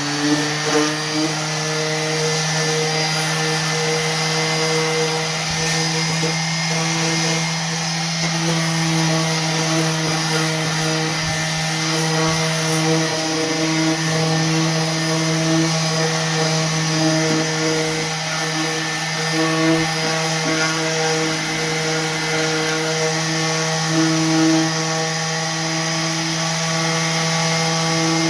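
Electric orbital sander running steadily at full speed, sanding through fresh paint on a drawer to distress the finish. Its motor pitch stays even, with small swells in loudness as the pad is pressed on the wood.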